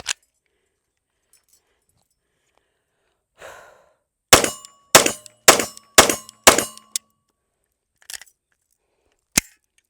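Bull Armory SAS Ultralight 2 9mm pistol firing five shots about half a second apart, from a magazine loaded with a few rounds. Near the end come a couple of sharp metallic clicks from handling the emptied pistol.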